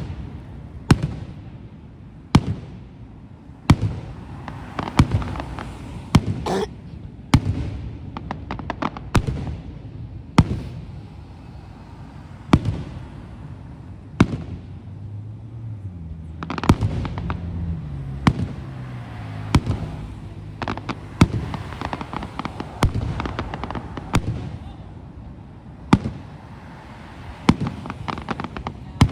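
Aerial fireworks exploding: sharp booms every second or two, with a quick run of crackling about seven to nine seconds in.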